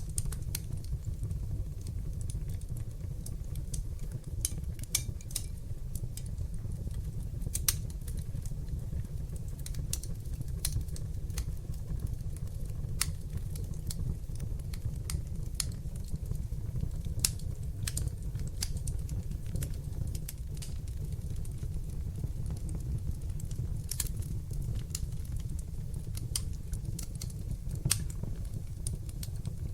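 Fire burning in a fireplace: a steady low rumble of flames with irregular sharp crackles and pops, a few louder pops standing out.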